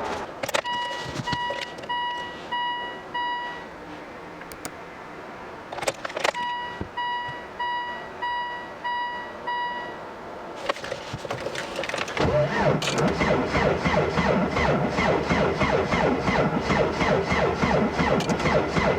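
Two runs of evenly spaced electronic warning beeps from the car's dashboard chime. About twelve seconds in, the Volvo S60 D5's five-cylinder turbodiesel starts in extreme cold and runs with a dense, even clatter.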